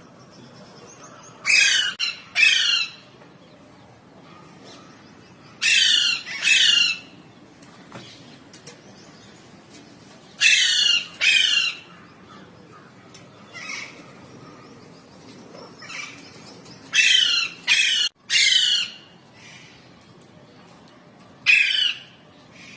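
A pet parrot squawking: loud, harsh calls, mostly in pairs, repeated about every four to five seconds, with a single call near the end.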